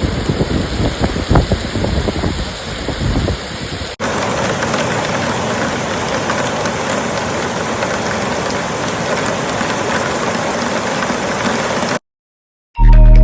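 Heavy rain pouring steadily, with gusts of wind rumbling on the microphone for the first few seconds. The sound changes abruptly to a steadier, even rain hiss about four seconds in, then cuts to silence and music near the end.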